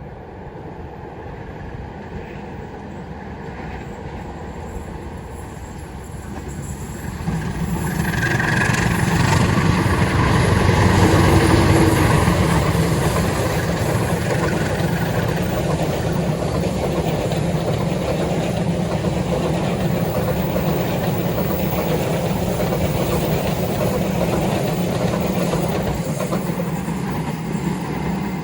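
Long diesel-hauled train approaching and passing. The locomotive's engine grows louder over the first several seconds and is loudest about ten seconds in, then the carriages roll past with a steady rumble.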